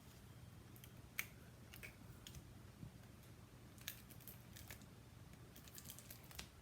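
Faint scattered clicks and ticks of double-sided tear-and-tape and cardstock being handled on a craft table, with a cluster of clicks near the end, over a low steady room hum.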